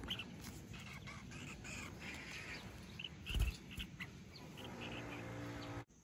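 Collared finchbill in eggplant foliage: faint, scattered short chirps with small ticks and rustles, and one low thump about three and a half seconds in.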